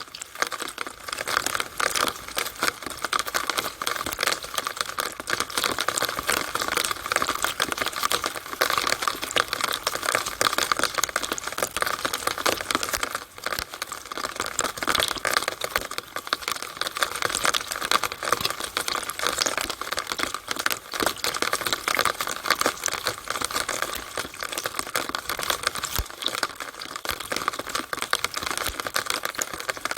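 Rainwater from a downspout splashing and dripping in a dense, steady crackle of many small splashes, with no let-up.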